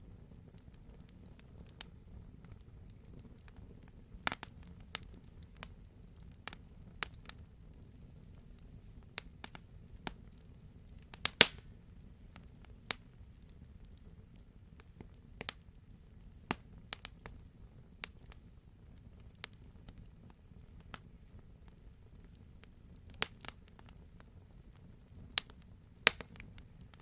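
Campfire crackling, with irregular sharp pops from the burning logs over a steady low rumble of the flames. The loudest is a quick cluster of pops about eleven seconds in.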